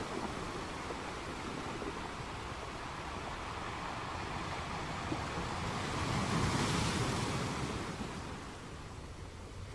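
Sea surf: a steady wash of waves, one wave swelling to its loudest about six seconds in and then ebbing away.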